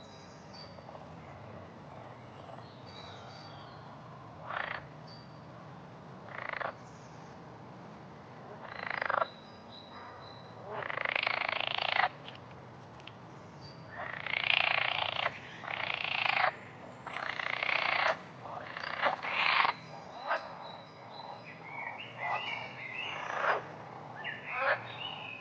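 Frogs croaking: a run of raspy calls, a few scattered ones at first, then longer, louder calls coming in quick succession through the second half. A faint steady low background sits underneath.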